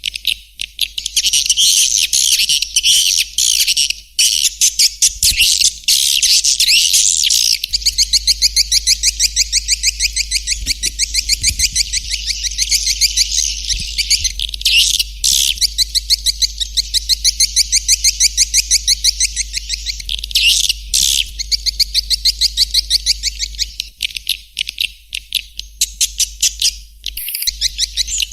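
Recorded swiftlet calls used as a lure sound for swiftlet houses: rapid, high-pitched chattering chirps repeated in fast, even runs, with a few brief breaks.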